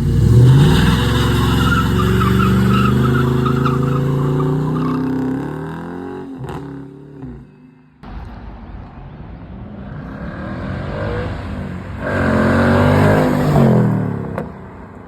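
Two cars accelerating hard out, one after the other. The first engine revs up steeply and holds a loud, climbing note for several seconds before fading away; after a break about eight seconds in, a second car's engine swells, then drops in pitch and fades as it passes.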